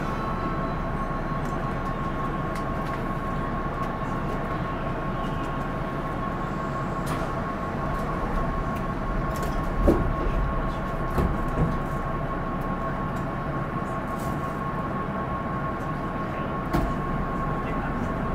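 Keihan 8000 series electric train pulling out and running slowly in the underground section, heard from inside the car: a steady hum over running noise, with a few knocks from the wheels about ten seconds in, again a second or two later, and once more near the end.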